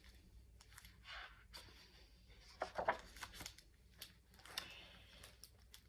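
Faint rustling and soft clicks of paper being handled, with the most noise near the middle: a picture book's page being turned.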